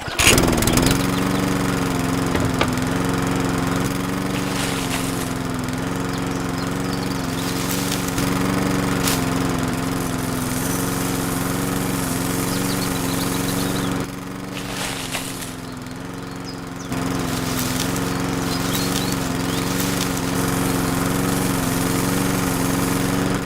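A small motor running steadily at a constant pitch. It drops quieter for about three seconds around the middle, then picks back up.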